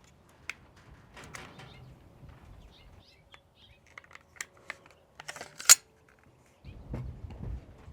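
Small metallic clicks and light rattles of FN SCAR rifle parts being handled while the bolt assembly is removed, with one sharp, much louder click a little before six seconds in. Near the end there is a short dull rumble of handling on the bench.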